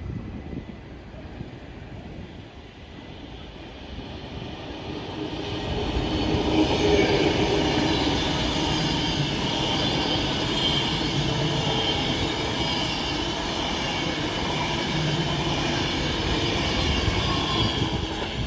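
A train passing on the main line, growing louder over the first few seconds, then running loud and steady with a high-pitched whine before falling away at the very end.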